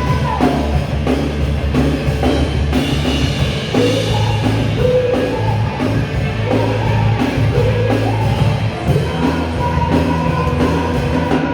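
A live rock and roll band jamming: drum kit keeping a steady beat under a bass line, with a melody over it.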